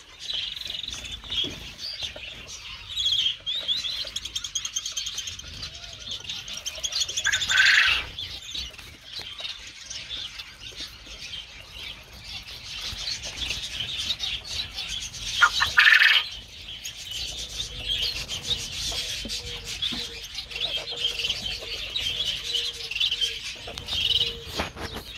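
A flock of small aviary birds chirping and chattering without a break, with two louder, harsher calls about seven and fifteen seconds in.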